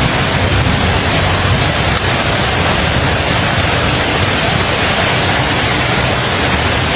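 Loud, steady rush of water with no break, the dense roar of flash floodwater or a heavy downpour.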